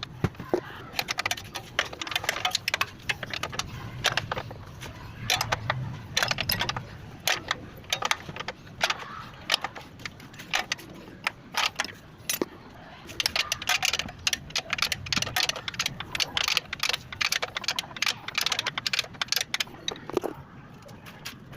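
Sharp, irregular metallic knocking and rattling from underneath a car, coming in bunches of quick knocks with short gaps between them.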